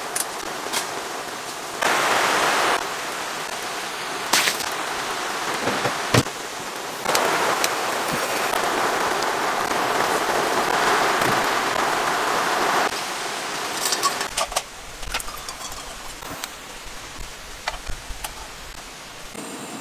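Steady rain falling, heard in several stretches of differing loudness, with a few sharp clicks and knocks of gear now and then. In the last few seconds the rain is quieter, with scattered small clicks.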